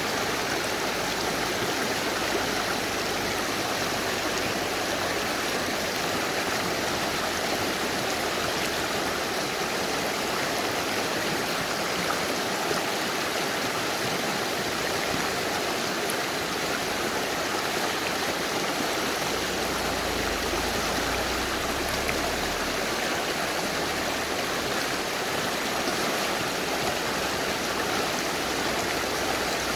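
Mountain river rushing over rocks: a steady, even sound of running water.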